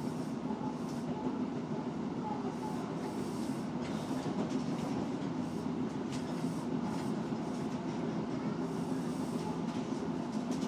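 Osaka Metro 66 series electric train running at speed between stations, heard from inside the car: a steady rumble of wheels on the rails, with a few short clicks as the wheels pass over rail joints.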